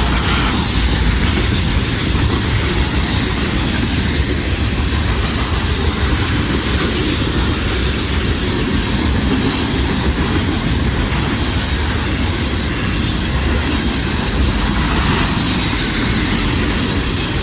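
Freight train rolling past close by: a steady rumble and rattle of the cars' steel wheels over the rails, which the railfan takes for a coal train.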